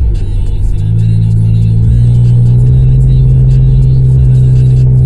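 Honda CR-V engine running through a straight-through exhaust with the resonator and muffler deleted, giving a loud, steady low drone. The pitch drops slightly at the start and climbs back about a second in, then holds.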